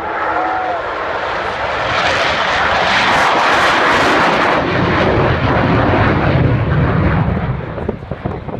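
Avro Vulcan XH558's four Rolls-Royce Bristol Olympus 202 jet engines at take-off power: a loud roar that builds to its peak a couple of seconds in. It then turns to a deeper rumble and starts to fall away near the end.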